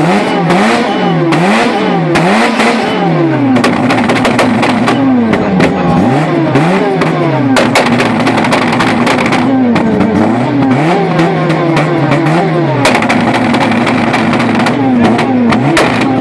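A modified VW Golf Mk1 (G65) engine revved while stationary: a string of quick throttle blips rising and falling, with a couple of longer held revs in the middle, and sharp crackles through much of it.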